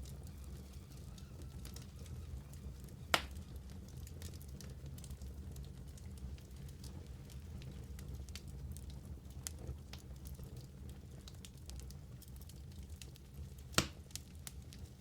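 Wood fire burning in a fireplace: a low steady rumble of the flames with a scatter of small crackles, and two sharp, louder pops, one about three seconds in and one near the end.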